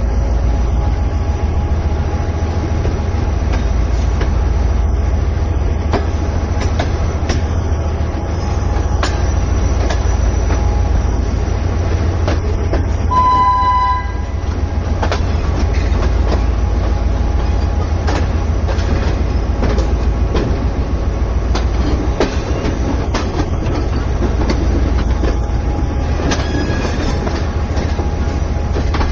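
Shah Latif Express passenger train running along the track, heard from on board: a steady rumble with the clicks of wheels over rail joints. A short train horn blast of about a second sounds about halfway through.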